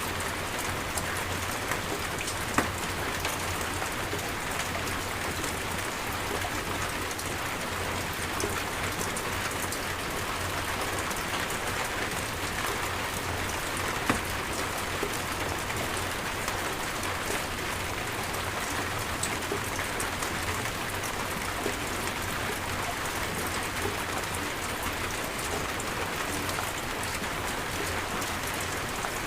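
Steady rain pouring down, with scattered sharper drop hits, two of them standing out loud, one early and one about halfway through.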